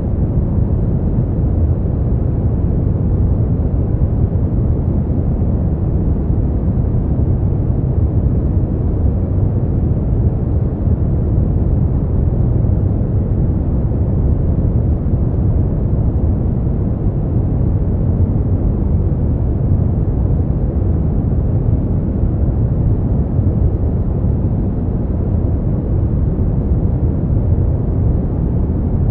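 Steady, unchanging noise of the kind played for sleep, deep and low-pitched rather than hissy, with no tones or separate events.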